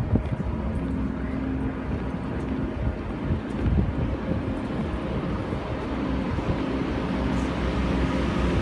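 Engine running steadily, with wind noise on the microphone and a low hum that comes and goes.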